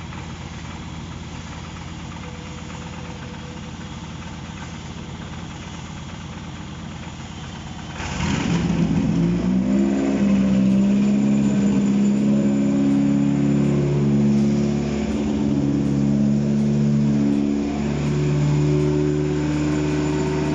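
Toyota 1ZZ 1.8-litre four-cylinder engine on a test stand. After a steady, quieter mechanical hum, it starts about eight seconds in and keeps running, its pitch shifting up and down as the revs change. This is the engine's first start on the stand.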